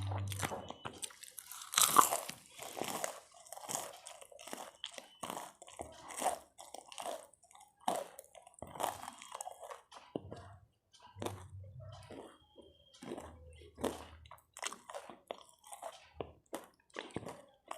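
A person eating close to the microphone: crunchy bites and chewing, a run of irregular crackles and wet mouth sounds, with the loudest crunch about two seconds in.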